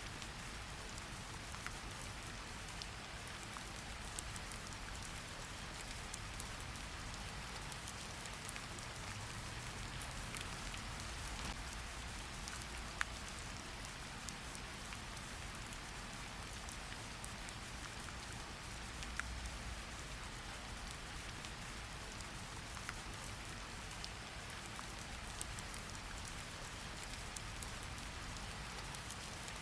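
Steady rain falling on a surface, an even hiss with scattered sharper drips of individual drops.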